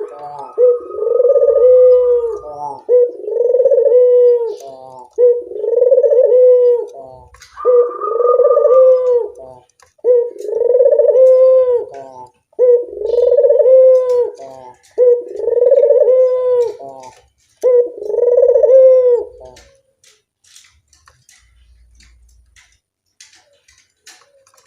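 Puter dove (Barbary dove) cooing: nine near-identical coo phrases, about one every two seconds, that stop about twenty seconds in. Only faint clicks follow.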